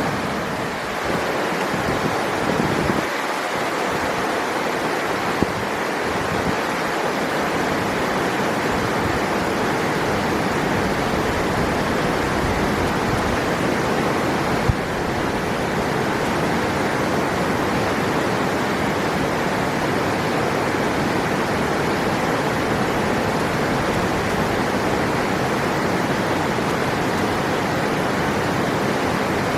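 River water rushing steadily, a continuous even wash of flowing water. Two brief clicks stand out, about five seconds in and again about ten seconds later.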